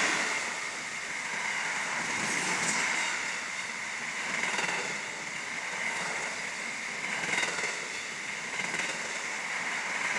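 An SCT Logistics intermodal container freight train rolling past, its container wagons making a steady noise of steel wheels on rail that swells and dips as the wagons go by.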